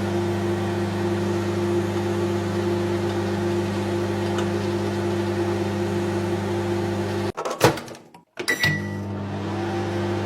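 Microwave oven running with a steady hum. About seven seconds in it breaks off with a few clicks and a moment of near silence, then the hum starts up again.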